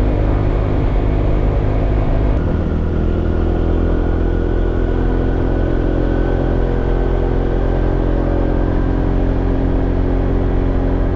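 Honda PCX scooter's single-cylinder engine and exhaust running under way, a steady drone over low rumble; the engine note shifts about two seconds in, then holds steady.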